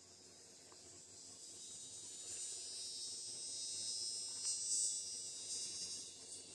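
Chorus of insects trilling high and hissing, swelling louder towards the middle and then fading.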